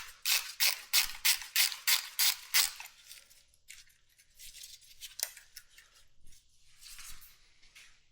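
Quick scraping strokes of hand work on a motorcycle's carburetor clamps, about three a second for the first three seconds, then softer, scattered scraping.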